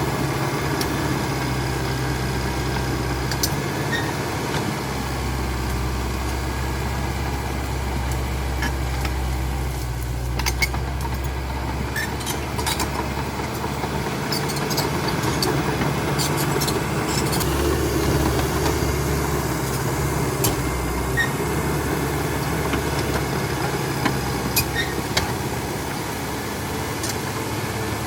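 CAT D5K XL bulldozer's diesel engine running steadily, its low drone swelling and easing several times. Scattered sharp clicks and knocks come through over it, most of them in the middle.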